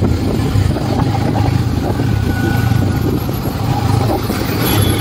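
Honda SP motorcycle's single-cylinder engine running steadily under way, with wind and road noise over it.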